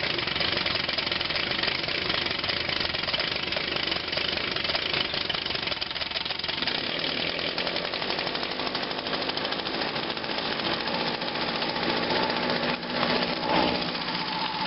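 Echo PB-251 handheld leaf blower's small two-stroke engine running just after a cold start at 17 °F, still partly on choke. It runs fast and even, settling into a steadier pitch about halfway through.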